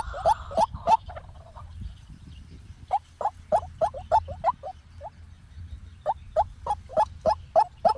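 White-breasted waterhen calling: runs of short, slightly rising notes repeated about three times a second, with a pause of about two seconds between runs.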